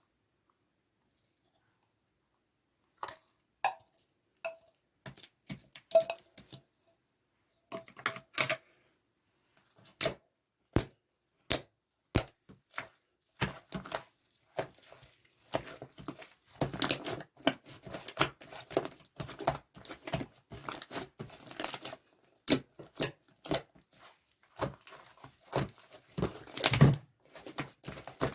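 Opaque slime mixed with white liquid clay being pressed and stretched by hand, making sharp sticky pops and clicks. After about three seconds of silence the pops come singly, then from about halfway they run together into a dense crackling squish.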